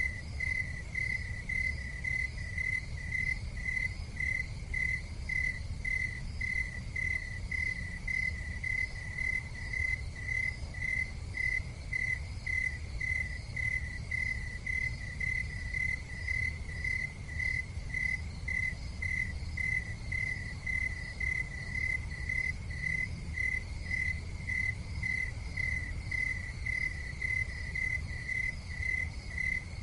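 A cricket chirping in a steady, even rhythm, about three chirps every two seconds, over a low, steady rumble.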